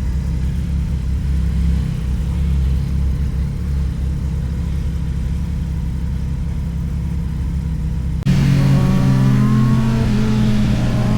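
Yamaha XSR900's inline three-cylinder engine running on the road, a low steady drone. About eight seconds in the sound switches abruptly to a louder, higher engine note.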